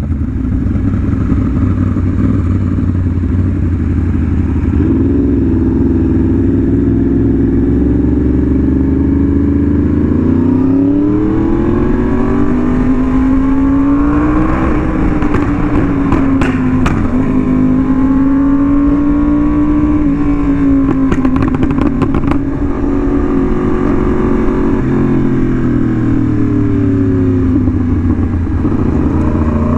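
Yamaha R1M's crossplane inline-four running through an SC Project exhaust while riding at speed. The revs climb hard about a third of the way in, hold, then ease off and rise again. A few sharp crackles come from the exhaust around the middle.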